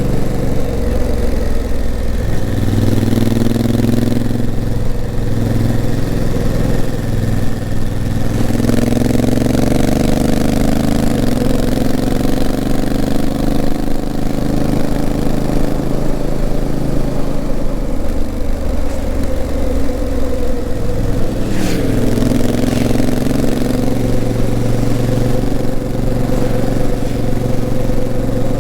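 Honda CRF1000L Africa Twin's parallel-twin engine running under way. Its pitch rises through two long pulls with gear changes between them and drops away sharply about three-quarters of the way through, over steady wind noise.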